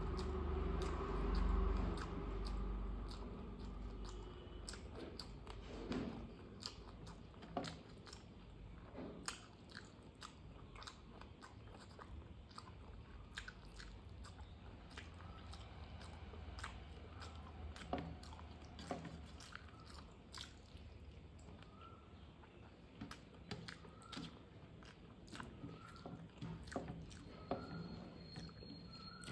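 Close-up chewing and biting sounds of someone eating a rice meal, with irregular wet smacks and small crunches.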